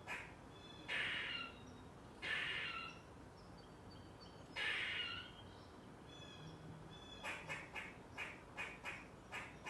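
A squirrel calling. Three longer, harsh calls come about a second, two seconds and nearly five seconds in. From about seven seconds on there is a fast run of short, sharp chirps at about three a second.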